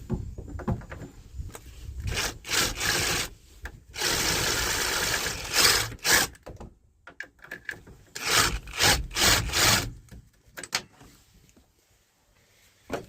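Several irregular bursts of rubbing and scraping from hands and tools working at a fastener, with a quiet stretch near the end.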